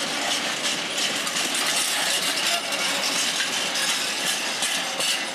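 Empty container flat wagons of a freight train rolling past, a steady rush of wheel-on-rail noise dotted with quick clicks and rattles.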